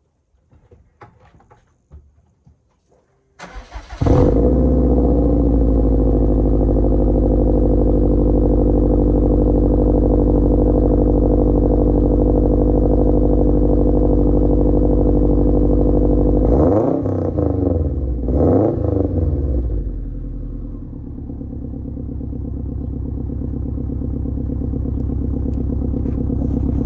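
Cold start of a 2008 Subaru Impreza STI's turbocharged 2.5-litre boxer flat-four through a new Cobra cat-back exhaust: it catches about four seconds in and runs at a steady high cold idle. It is revved briefly twice about two-thirds through, then settles to a lower idle.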